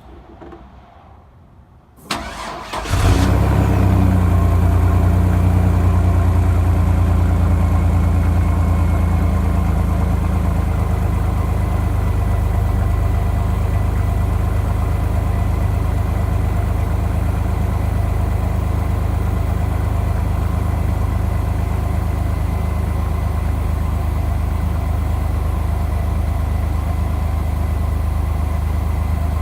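2002 Chevrolet S-10's 4.3-litre Vortec V6 cranked and starting about two seconds in, then idling steadily, the idle easing down a little as it settles.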